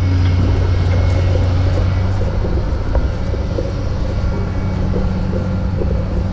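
Truck engine running at idle: a steady low hum whose pitch shifts higher about two seconds in.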